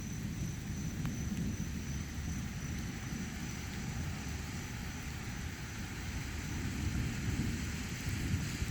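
Thunderstorm ambience: a steady low rumble with a light hiss and a faint thin high tone throughout. The hiss of rain builds near the end.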